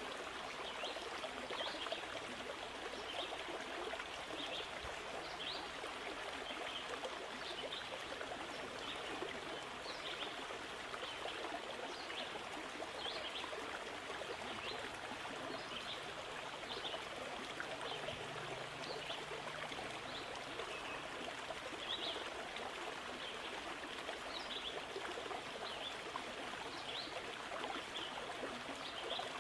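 Steady rushing sound of flowing water, like a stream, with small trickling splashes scattered throughout.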